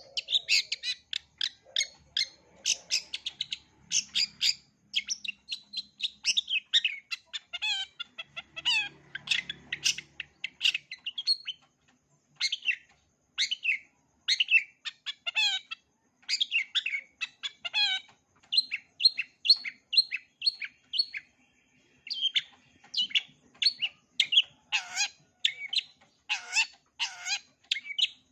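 Long-tailed shrike (cendet) singing a fast, varied song packed with mimicked phrases, in quick runs of short sharp chirps broken by brief pauses. Near the end it switches to louder down-slurred calls, about one a second.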